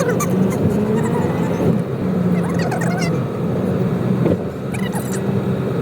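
A car driving, with its engine and road noise making a steady low hum.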